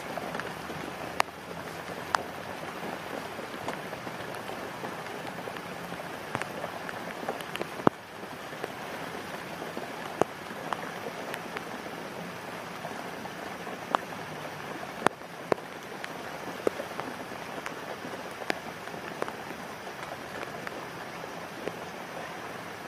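Steady rain falling, with sharp taps of single large drops landing close by at irregular intervals, every second or two.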